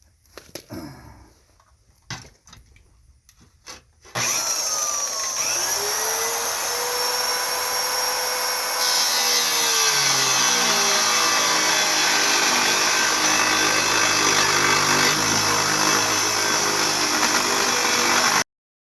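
Old power saw with a nearly worn-out blade cutting thick steel. After a few handling clicks, the motor starts about four seconds in and runs loud and steady under load, its pitch sagging as the blade bites. It cuts off abruptly near the end.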